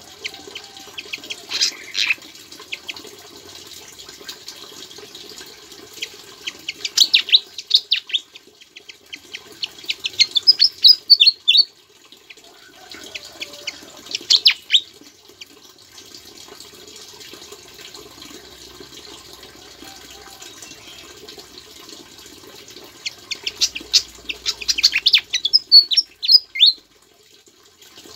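A sikatan jawa songbird singing in several bursts of rapid high chirps and quick downslurred whistles, its song filled with ciblek-style calls. The longest burst comes near the end. A steady hiss like running water continues underneath.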